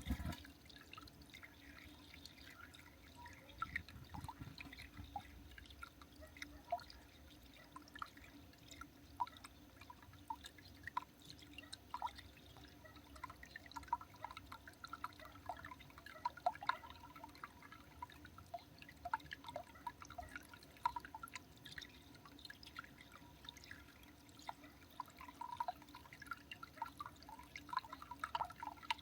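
Water dripping: quick, irregular drips, several a second, over a faint steady low hum.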